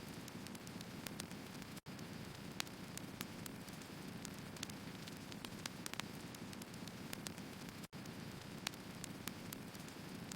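Wood fire burning: irregular sharp crackles and pops from the firewood over a steady low rumble of flame. The sound cuts out completely for an instant twice, about two seconds in and near eight seconds.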